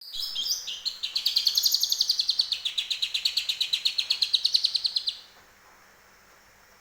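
Green leafbird (cucak ijo) singing a fast, rapid run of high chirping notes, about seven a second, in its learned cucak jenggot (grey-cheeked bulbul) song. The song stops about five seconds in.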